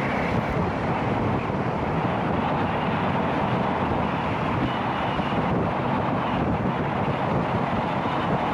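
A 450 cc single-cylinder dirt bike running steadily along a road, with wind buffeting the microphone.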